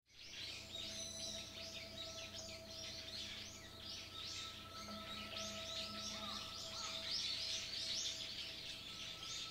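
A chorus of many small birds chirping rapidly and overlapping, with a faint steady tone underneath.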